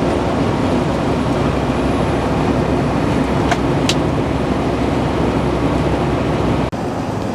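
Steady drone of a semi truck's engine and road noise heard from inside the cab while driving at highway speed, with two short clicks a few seconds in.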